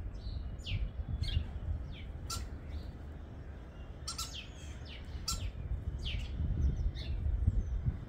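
Garden birds calling: a scatter of short, sharp chirps that sweep downward in pitch, several overlapping at times, over a steady low rumble.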